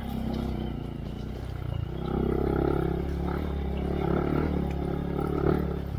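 2023 Honda Monkey's single-cylinder four-stroke engine running through a Yoshimura RS3 exhaust with spark arrestor, getting louder about two seconds in as it takes more throttle.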